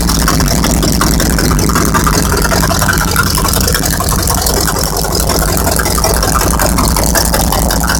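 V8 engine of a lawn mower running steadily, with a rapid, even exhaust pulse.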